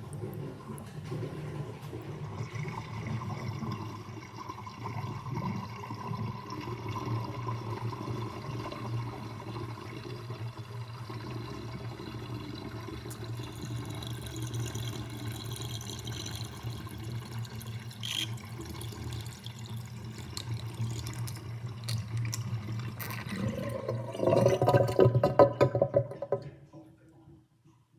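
Kitchen sink water draining through a drain strainer basket, gurgling steadily. About 24 seconds in the gurgling grows loudest, then cuts off sharply as the drain runs empty.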